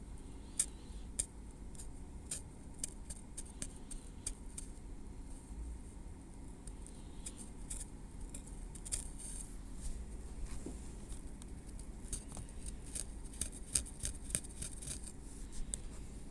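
Metal tweezers working through hair on a scalp, making a run of soft, irregular clicks and ticks that come thicker toward the end.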